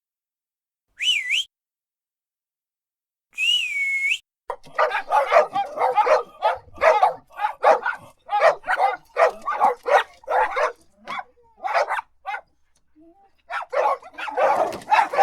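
Two short whistles, then a dog barking over and over, about two barks a second, with a brief pause before the barking starts again.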